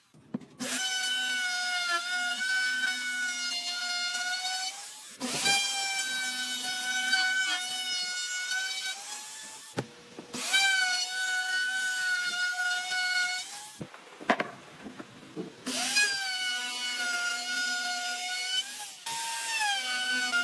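Electric woodworking power tool running in five passes of a few seconds each. Its high whine dips in pitch as it bites into the wood, holds steady, then rises again as it comes free.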